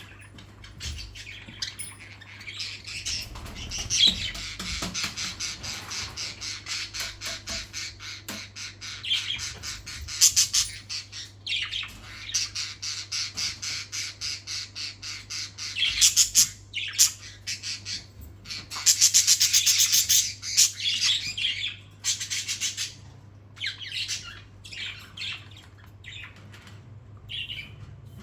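Pet parrots chattering and squawking in rapid trains of shrill calls, with several louder screeches in the middle.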